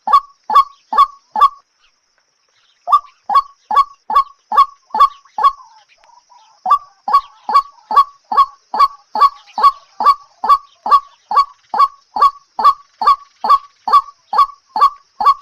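A bird's call: one short note that drops sharply in pitch, repeated at very even spacing a little over twice a second, with a pause of about a second and a half near the start.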